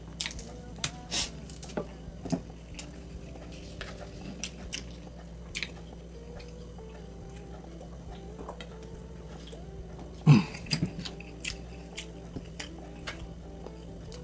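Eating close to the microphone: chewing with scattered short wet clicks and smacks, and one louder knock about ten seconds in.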